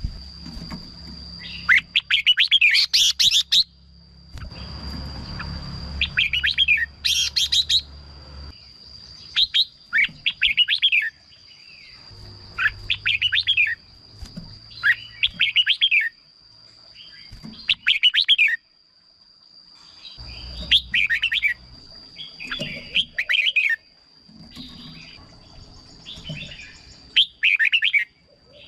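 Red-whiskered bulbul singing, short bubbly whistled phrases repeated every second or two. A steady thin high tone runs underneath.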